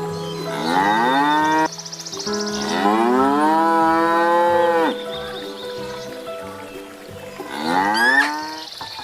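A cow mooing three times, each call rising in pitch, the middle one longest at about two and a half seconds. Soft background music with held notes plays underneath.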